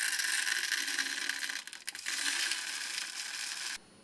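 Lead shot pouring in a stream into the nose of a model airplane as balance weight: a steady rattling hiss that falters briefly near the middle and stops abruptly near the end.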